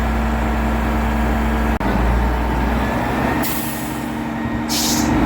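Mobile crane's diesel engine running steadily, with two short bursts of air hissing about three and a half and four and a half seconds in.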